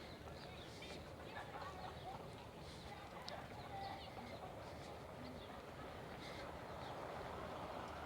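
Faint outdoor ambience: small birds chirping now and then over a steady low background rumble.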